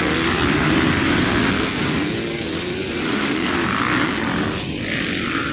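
Motocross bike engines running and revving on the track, a loud continuous drone with whines that rise and fall in pitch; it eases off a little over the last few seconds.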